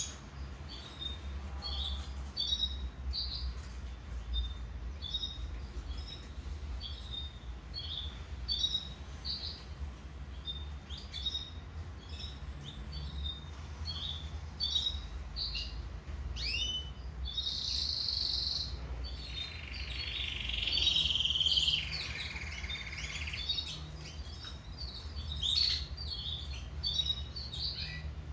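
Domestic canary singing a run of short, rapidly repeated chirps. About two-thirds of the way in they give way to a buzzing high trill and then a lower rolling trill, before the chirps resume.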